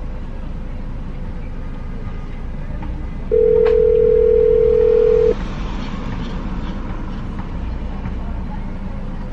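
Telephone ringback tone of an outgoing call ringing: one steady two-second ring about three seconds in, a four-second pause, and the next ring starting at the end. A low steady rumble runs underneath.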